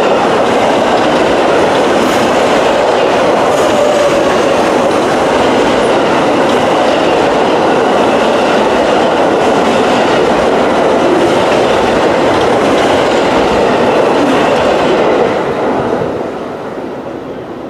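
Amtrak passenger train rolling past close by, its cars' wheels clicking over the rail joints in a steady loud rush. The sound drops off about fifteen seconds in.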